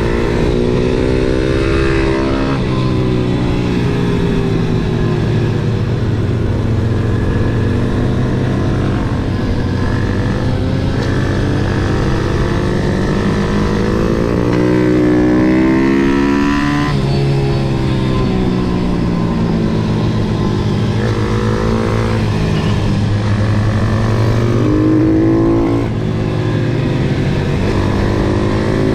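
MRF 140 SM pit bike's single-cylinder four-stroke engine under hard riding on a track, revving up and dropping back as the rider works the throttle and gears. The revs climb several times and fall off sharply, the biggest climbs about halfway through and near the end.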